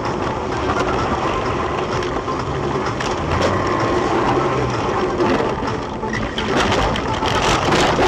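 Car on the move: steady engine and road rumble, with scattered knocks and rattles in the second half.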